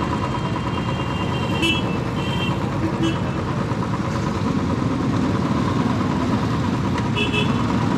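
Motorcycle engines running in a steady low rumble, with a few short high beeps about two to three seconds in and again near the end.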